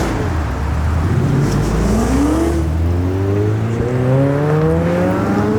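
A car engine accelerating hard, its pitch climbing steadily over the last few seconds.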